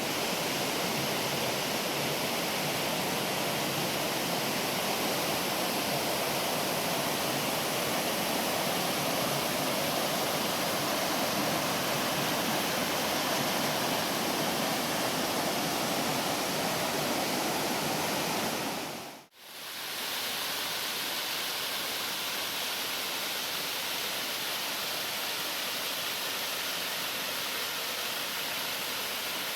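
Steady rushing of a waterfall. It drops out for a moment about two-thirds of the way through, then comes back a little quieter.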